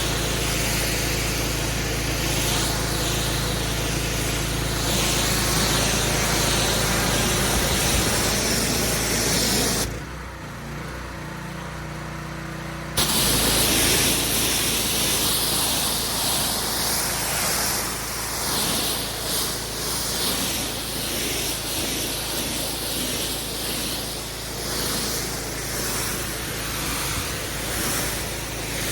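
Pressure washer running, its water jet spraying onto block paving with a steady hiss over the machine's hum. Near the middle the spray stops for about three seconds, leaving only the hum, then starts again abruptly.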